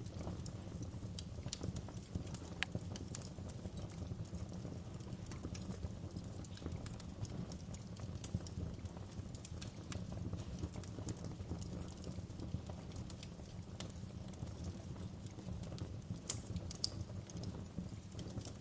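Fire crackling: irregular sharp pops and snaps over a steady low rumble, with a few louder pops near the end.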